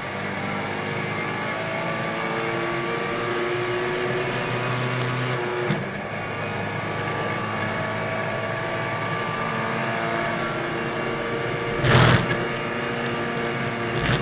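Classic Mini race car's four-cylinder engine heard from inside the cabin, running at fairly steady revs with a brief dip about six seconds in. A short, loud rush of noise near the end.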